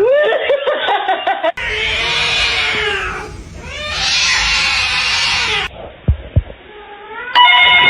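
A cat yowling: a quick run of wavering meows, then two long drawn-out wails falling in pitch.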